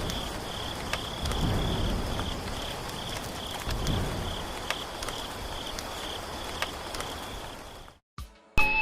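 Outdoor ambience with an insect, likely a cricket, trilling steadily in rapid pulses at a high pitch, over a low background rumble. The sound cuts off abruptly near the end, and music begins.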